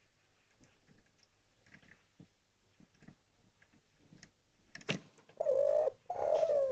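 Spotted dove (derkuku/tekukur) cooing: two loud, low coo notes near the end, coming right after a sharp click and a few faint ticks.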